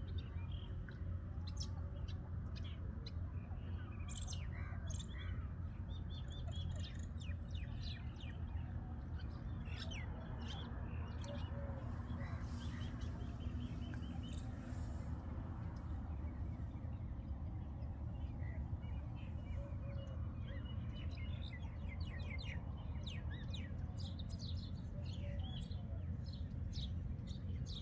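Birds chirping: many short, quick calls come in irregular runs over a steady low rumble.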